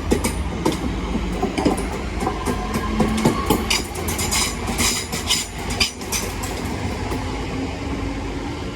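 Two coupled Class 323 electric multiple units moving out of the station past the platform: a steady rolling rumble with wheels clicking and clacking over the rail joints.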